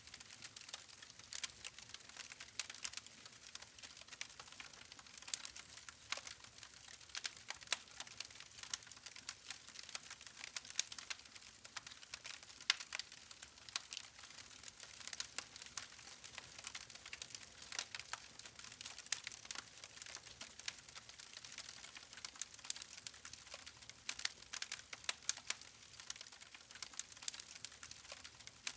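Wood fire crackling: a steady stream of small irregular pops and snaps from burning logs over a faint hiss.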